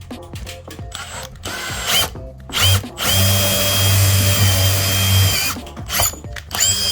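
A power drill running in short bursts that rise in pitch as it spins up, twice in the first three seconds, then a steady run of a little over two seconds, and a final brief burst near the end.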